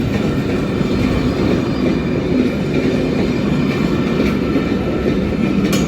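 Belmond British Pullman train passing close by: a steady loud rumble of the coaches' wheels running over the track, with a sharp clack near the end.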